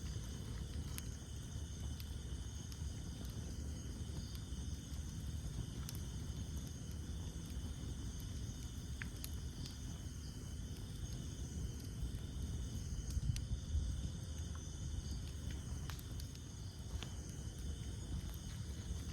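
Campfire of burning wood crackling, with scattered sharp pops over a low rumble of flames, a little busier about two-thirds of the way in. A steady high insect chorus of crickets trills behind it.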